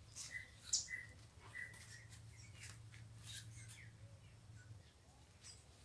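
Faint chirping of small birds: short, high calls scattered through, over a low steady hum that stops near the end.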